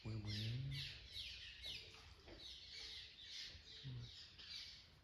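A bird singing: a steady run of short high notes, each falling in pitch, about two a second.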